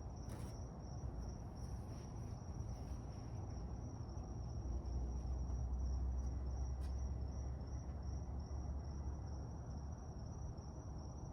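Insects trilling steadily in one high, unbroken pitch, over a low rumble and a couple of faint clicks.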